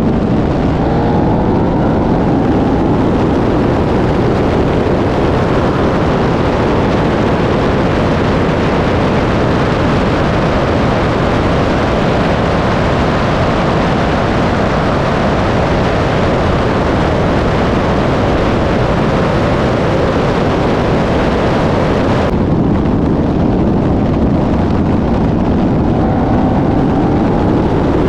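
Loud car engines running hard at full throttle, their pitch climbing near the start and again near the end. The sound changes abruptly about 22 seconds in.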